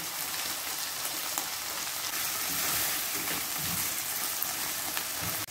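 Diced onion, garlic and canned tuna sizzling steadily in hot oil in a nonstick frying pan, stirred with a plastic slotted spatula.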